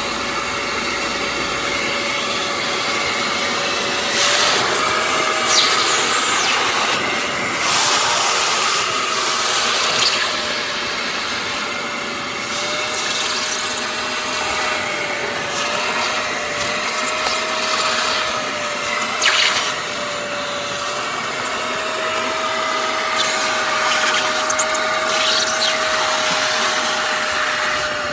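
Hoover CleanSlate Plus portable carpet spot cleaner running. Its motor holds a steady hum while the suction noise surges louder every few seconds as water is drawn up through the nozzle.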